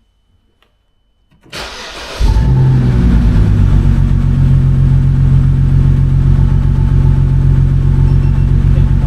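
A BMW N52 inline-six is cranked briefly by the starter and catches about two seconds in, then settles into a loud, steady idle with a slight pulsing unevenness. The engine is running with a misfire that the owner traces to the suspect ignition coil, now fitted to cylinder 1.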